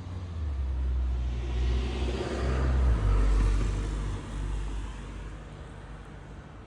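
1987 Jaguar XJS's 5.3-litre V12 engine running with a low rumble, revved up about a second in and loudest around three seconds, then easing back down to a steady idle.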